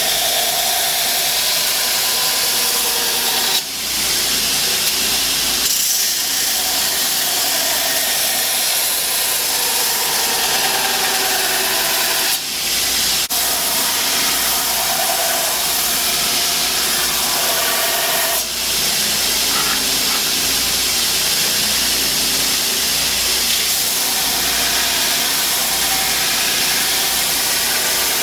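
Forge running with a steady hiss, dipping briefly about three times.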